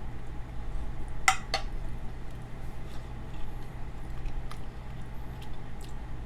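Utensil clinking against a plate during a meal: two sharp clinks about a second in, then a few lighter ticks, over a steady low hum.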